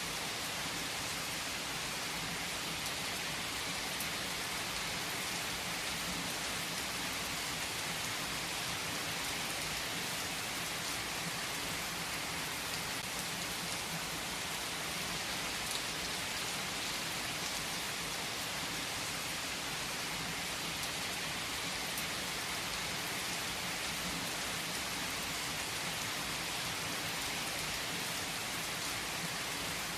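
Steady rainfall: a dense, even hiss of raindrops pattering on a surface, with no change in intensity.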